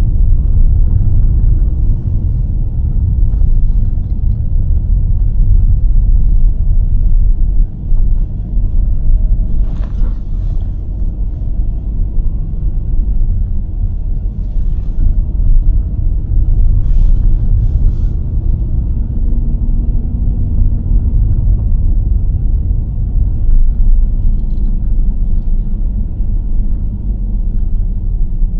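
Car driving along a road: a steady low rumble of road and engine noise, with a few brief knocks or rattles about ten seconds in and again around seventeen seconds.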